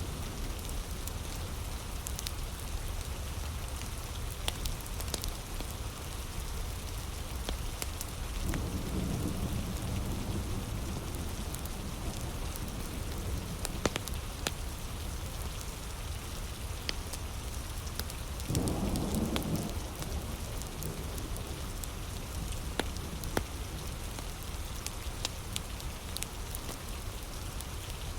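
Heavy rain falling steadily, with a wood fire crackling in scattered sharp pops. Two brief low rumbles come through, one about nine seconds in and another near nineteen seconds.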